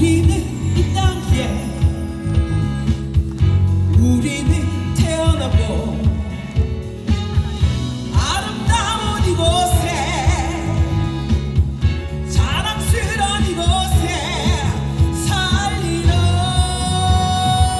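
Live band music with singing over a steady, heavy bass and drum beat, the lead line wavering and sliding in pitch.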